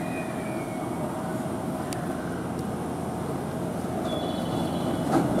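A 521 series electric train at the platform as it comes to a stop. A faint brake squeal dies away in the first second, then the stopped train gives off steady noise, with a click about two seconds in and a knock near the end.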